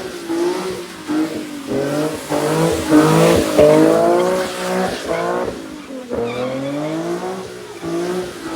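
Car engine revved hard over and over, each rev climbing in pitch and then dropping back, about once or twice a second, with a hiss of tire screech strongest around three to four seconds in.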